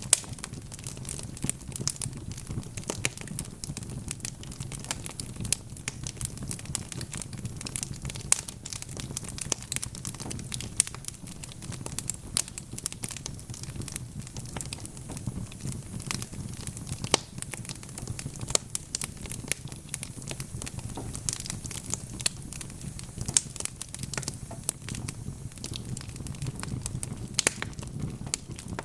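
Log fire burning in a fireplace, crackling continuously with many irregular sharp pops and snaps over a steady low hum.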